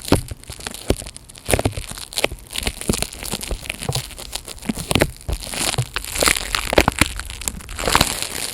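Close-miked ASMR handling sounds: irregular crinkling, crackling and crushing of material worked right against the microphone, in quick uneven clicks and rustles.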